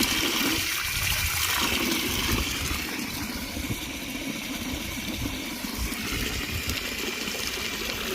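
Water pouring steadily, filling a container.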